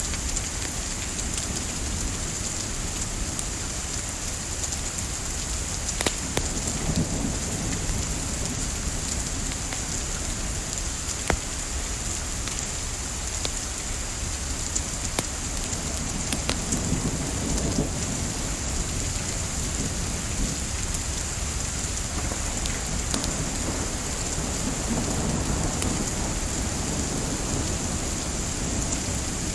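Steady rain hiss mixed with a wood fire's scattered sharp crackles, with a few low rumbling swells now and then.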